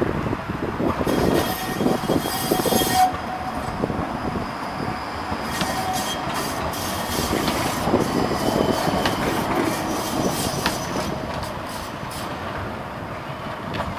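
A tram running by on its rails, its wheels squealing briefly about a second in, then a run of sharp clicks as the wheels cross rail joints.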